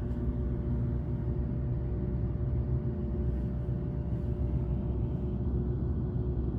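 Steady low hum and rumble of running air-conditioning equipment, with a few steady tones over it.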